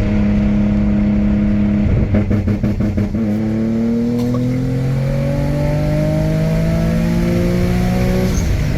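Twin-turbo Infiniti G37's 3.7-litre V6 under way: a steady drone, a brief fluttering chatter about two seconds in, then the engine pulls steadily up in pitch under acceleration for about five seconds before the pitch drops suddenly near the end.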